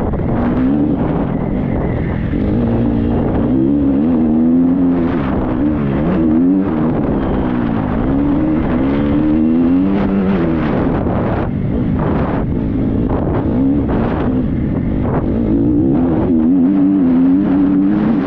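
Triumph 250 motocross bike's single-cylinder four-stroke engine being ridden hard, its revs rising and falling again and again as the throttle is worked, with occasional knocks.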